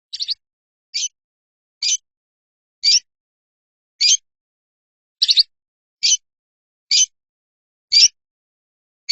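A bird's short, high chirp repeated about once a second, with silence between the calls. The chirp comes as a quick double near the start and again about five seconds in.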